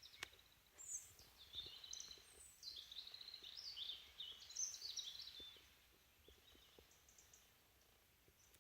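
Faint songbird song: a run of rapid, high warbling and chirping notes for about five seconds, then only a few faint calls.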